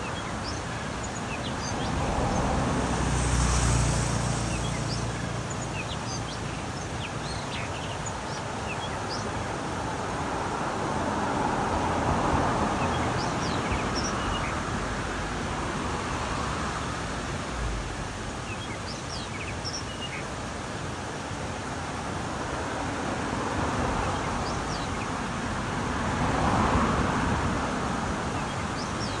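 Steady road traffic noise that swells and fades as vehicles pass, with scattered short, high bird chirps.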